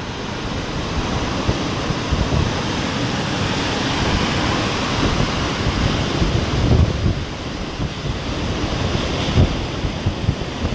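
Hurricane winds blowing in a steady rushing hiss, gusting in uneven low rumbles against the microphone.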